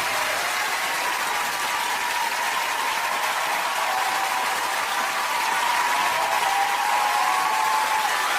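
Large studio audience applauding steadily, with some high wavering cheers over the clapping.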